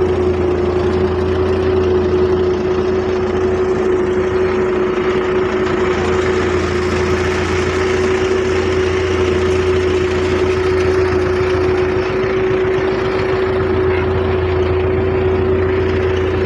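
Belarus 510 tractor's diesel engine running at a steady speed, with a constant hum.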